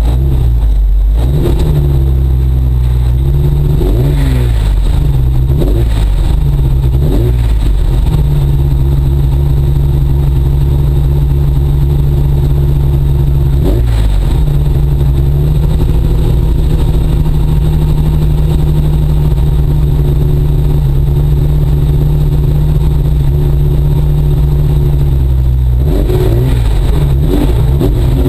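Ford Focus rally car's engine revved up and down several times, then held at steady raised revs for about eighteen seconds with a brief blip partway through, before the revs change again near the end, while the car stays stationary in the scrub.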